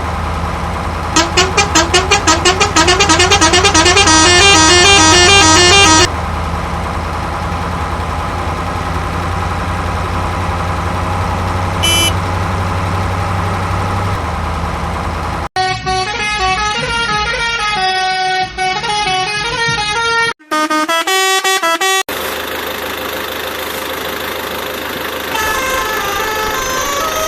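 A steady engine-like drone with a warbling horn that steps rapidly up and down in pitch for about five seconds, and a short beep later. After an abrupt cut about halfway through, a run of changing melodic tones like an electronic jingle takes over.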